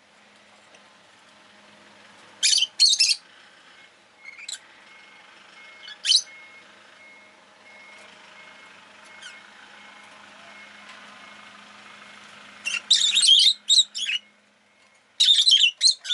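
Rosy-faced lovebird giving short, sharp, high-pitched chirps in clusters, loudest in a quick run of calls about thirteen seconds in. Underneath, a faint steady hum of street traffic that fades out shortly after.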